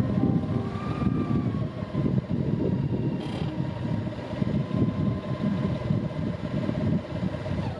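Car engine idling with a steady hum.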